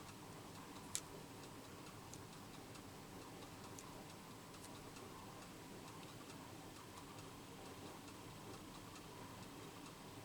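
Quiet room tone with scattered faint clicks and taps, one sharper click about a second in.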